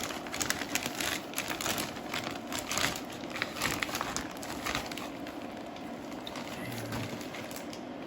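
Plastic vacuum-sealer bag crinkling and rustling as a brisket is worked into it, busy for the first five seconds or so and then quieter.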